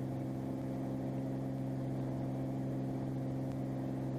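Cirrus SR22's six-cylinder piston engine and propeller running steadily at climb power, heard inside the cabin as a constant drone with a strong low hum.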